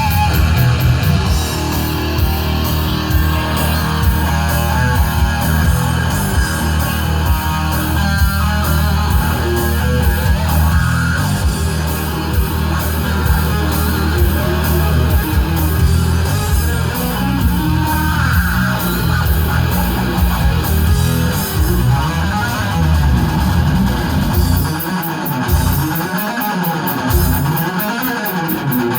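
Live instrumental heavy metal: lead electric guitar over bass guitar, with a heavy, continuous low end. Over the last few seconds the low end breaks into separate heavy hits about a second apart.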